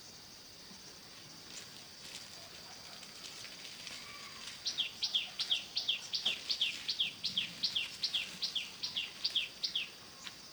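A bird calling a rapid run of repeated, sharply falling whistled notes, about three to four a second, starting about halfway through and stopping shortly before the end. A thin, steady high tone runs underneath.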